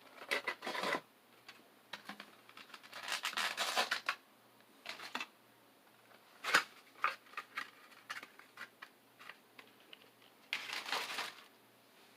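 Pokemon card packs and cards being handled: several short bursts of rustling and crinkling, with scattered small clicks and taps in between.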